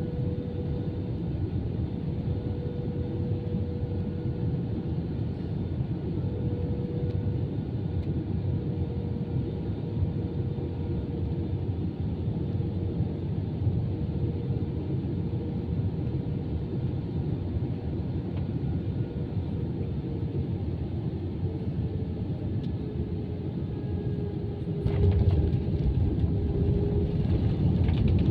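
Cabin noise inside an Airbus A320-214: the steady rumble of its CFM56 engines and airflow, with a faint engine tone that drifts slightly lower. About 25 seconds in the rumble grows suddenly louder, with rattling.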